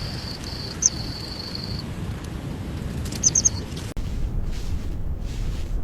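Night ambience: a high, steady insect trill that opens with a chirp and stops about two seconds in, and a quick run of three chirps a little after three seconds. Just before the end it cuts abruptly to a low room rumble with faint soft hissing.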